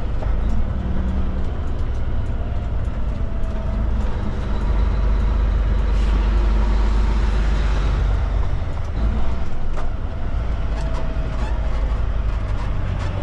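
Kenworth K200 cabover truck's Cummins diesel engine running steadily, a deep constant drone.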